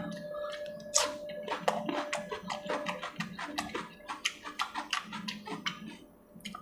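Close-miked eating: a man chewing a mouthful of chicken curry and cucumber, with irregular wet clicks and crunches of the mouth and food. A faint steady tone hums underneath, and the chewing stops briefly near the end.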